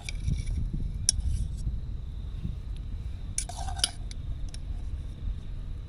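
A metal utensil clinking once, then scraping and clattering against a pot or plate for about half a second near the middle, over a steady low rumble of wind on the microphone.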